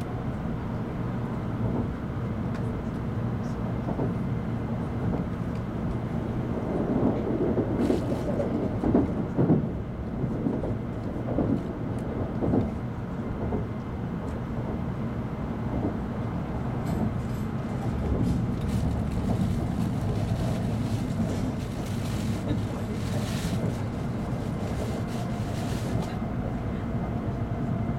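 Steady rumble of an N700 series Shinkansen running at speed, heard inside the passenger car, with a louder, uneven stretch about a quarter of the way in.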